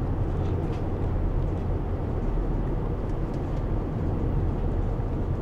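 Van running, heard from inside its cabin: a steady low rumble with no breaks.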